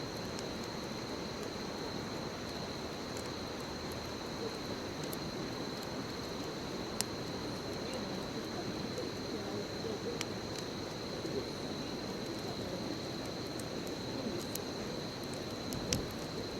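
Bonfire burning with a steady hiss and soft crackle, broken by occasional sharp pops from the wood. A steady high insect trill runs behind it.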